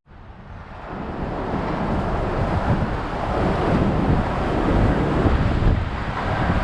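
Strong gusting wind buffeting the microphone, rising from silence over the first second and then staying loud and steady.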